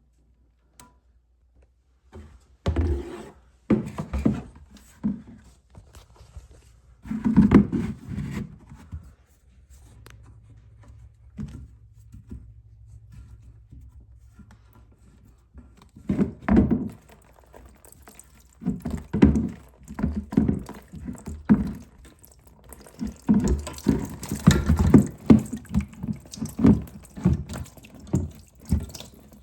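Irregular knocks and clunks of hands working on a toilet tank and its fill valve, with water running through the later part.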